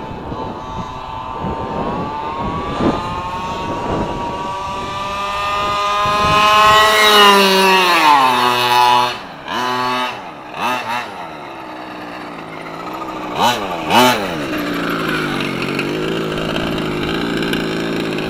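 Small 32cc two-stroke gas engine of a 1/5-scale Redcat monster truck under throttle, its pitch climbing steadily for about seven seconds. The throttle is then let off and the pitch drops away sharply. A couple of quick throttle blips follow before it settles to a steady low running note.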